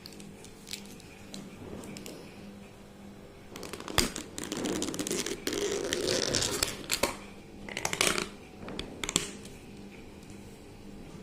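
Close handling noise: scattered clicks, then several seconds of rustling and scraping with sharp clicks, and a few shorter rustles near the end.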